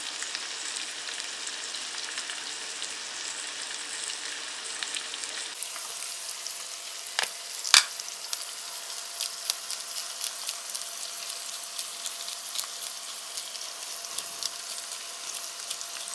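Eggs frying in oil with macaroni and tomatoes in an open frying pan: a steady sizzle dotted with small crackles, and two sharper pops about halfway through.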